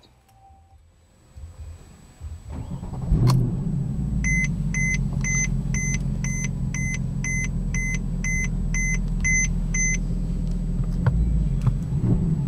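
The Mercedes C63 AMG's V8 is started about three seconds in, with a brief crank, then a sharp catch, then a steady low idle. A dashboard warning chime beeps about twice a second for around six seconds over the idle.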